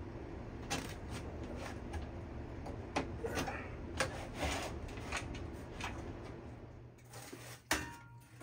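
Hand work on battery-charger wire, most likely stripping insulation: scattered clicks and short scraping rubs, over a steady low hum.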